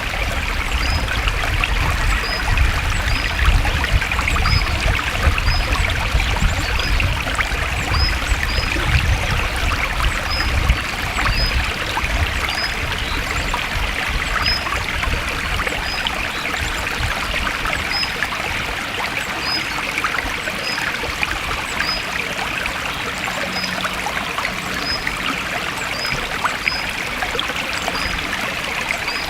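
Stream water flowing and trickling steadily over stones. A faint high chirp repeats about once a second throughout. A low rumble underneath eases off about halfway through.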